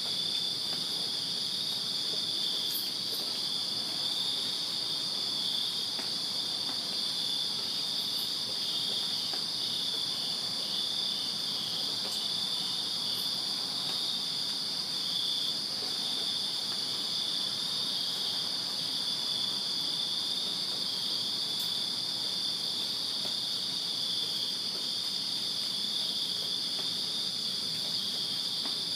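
Chorus of crickets chirping on a summer night: a steady, high-pitched, unbroken trill of many insects together.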